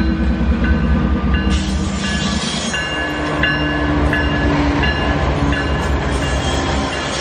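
Loaded iron-ore freight train moving slowly: the diesel locomotive's engine runs with a deep rumble while the ore wagons roll by on the rails. From about a second and a half in, short high metallic squeals repeat.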